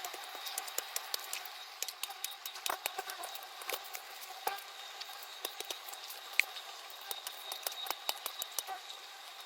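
Earth being dug out with a hand tool: irregular scrapes and crunches of soil with many sharp clicks, over a steady faint hiss.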